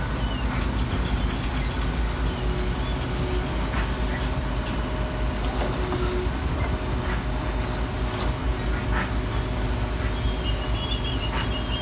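Garbage truck running with a steady low rumble, with faint short high squeaks scattered over it.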